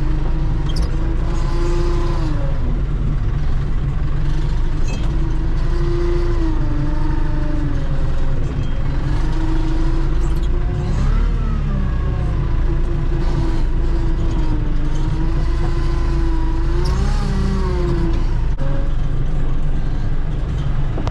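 Tractor engine running steadily, its pitch dipping and rising every few seconds as the load on it changes.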